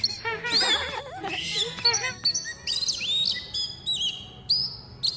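Small birds chirping: many short, rising chirps that repeat through the second half. A high, wavering voice-like sound is heard in the first second.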